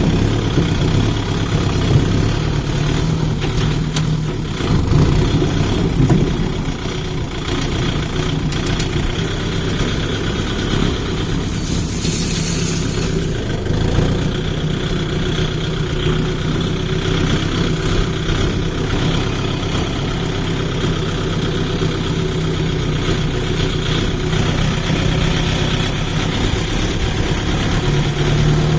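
Tractor diesel engine running steadily, with a brief hiss about twelve seconds in.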